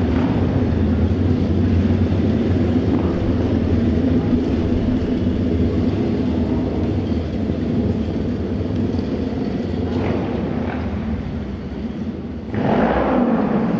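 Steady low rumble of auto race motorcycle engines, with one passing louder about three-quarters of the way through, its pitch dropping as it goes by.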